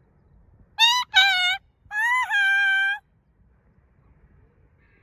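Macaw giving three loud, harsh calls, two short ones close together and then a longer, held call of about a second.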